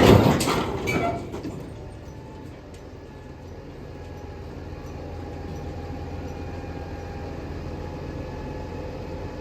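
A loud crash or crack right at the start that dies away within about a second and a half, followed by a vehicle engine running steadily with a low rumble.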